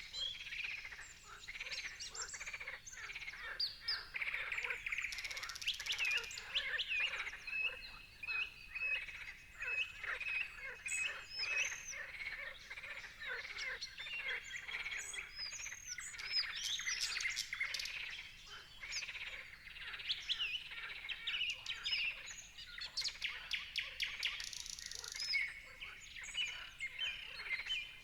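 Several birds singing and chirping at once: many overlapping calls with quick rising and falling notes, and one bird repeating a short note in a steady run.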